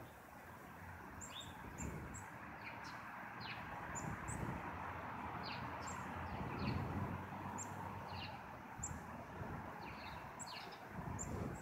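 Small birds chirping: many short, high, quickly falling chirps scattered throughout, over a steady outdoor background noise with some low rumble.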